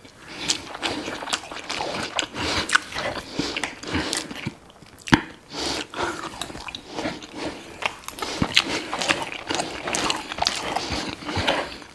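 Close-miked chewing of a mouthful of grilled burger patty and rice, with many quick, irregular wet smacks and clicks of the mouth.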